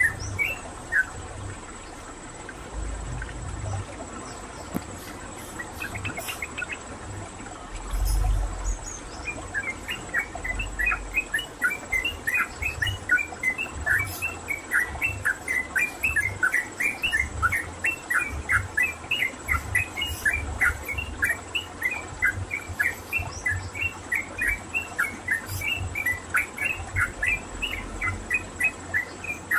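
Yellow-vented bulbul (trucukan) singing: fast runs of short, sharp chirping notes, several a second. After the first second it goes mostly quiet, then from about nine seconds in the chirping runs on without a break. A low bump sounds about eight seconds in.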